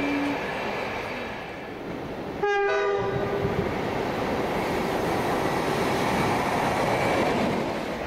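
Train passing with a steady rush of wheel and track noise. A short horn blast cuts in about two and a half seconds in and is the loudest moment.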